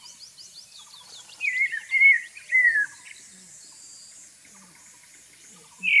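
Bird calling: three loud whistled phrases about one and a half to three seconds in, the last sliding down in pitch, over faint thin high chirps near the start.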